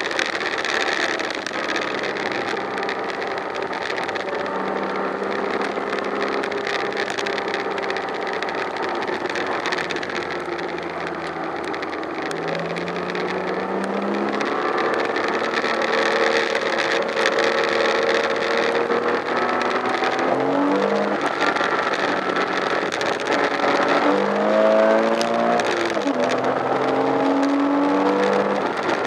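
Porsche Boxster S (987) flat-six engine heard from inside the cabin, pulling at part throttle and then accelerating hard. Its note rises through the revs, dropping and climbing again at gear changes about two-thirds of the way through and again near the end.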